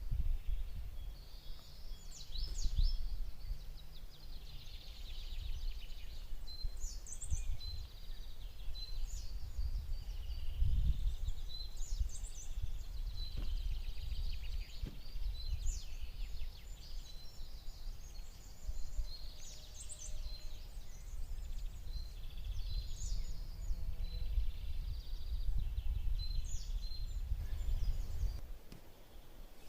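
Outdoor birdsong: a bird repeats a short, high, chirpy phrase every three to four seconds, with other faint calls, over a steady low rumble.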